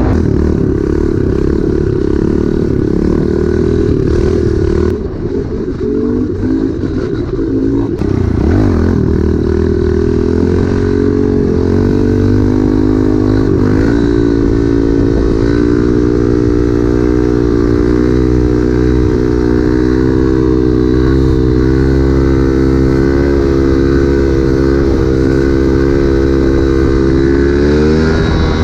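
Pit bike's small single-cylinder engine running as it is ridden. It eases off about five seconds in, picks up again a few seconds later, holds a steady cruise, then revs up with a rising pitch near the end.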